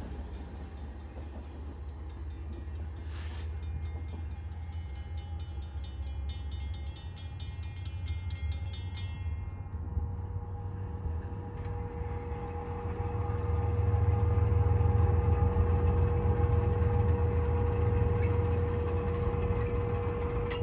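Train passing with a continuous low rumble and rhythmic clicking of wheels over the rails. A steady tone joins about halfway, and the rumble grows louder soon after.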